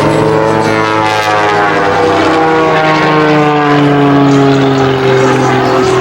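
Propeller airplane engine passing by, its pitch sinking slowly as it goes past.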